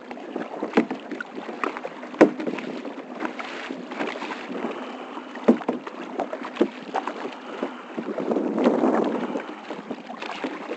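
Kayak paddling: paddle blades dipping and splashing in the water and dripping, with scattered sharp knocks and a longer swish of water about eight seconds in.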